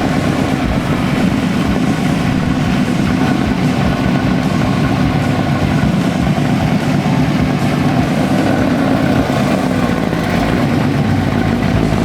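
A car engine idling steadily close by, with a low, even rumble.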